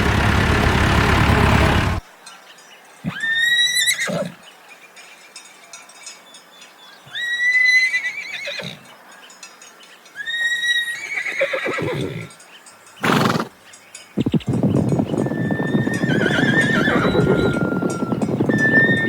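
Horse neighing: several separate whinnies with pauses between them, then a longer, noisier whinny near the end.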